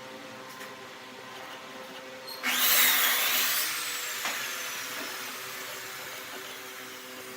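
A steady workshop motor hum, then about two and a half seconds in a short, loud burst of a power tool cutting or spinning up. After the burst a high whine falls slowly in pitch as the tool winds down.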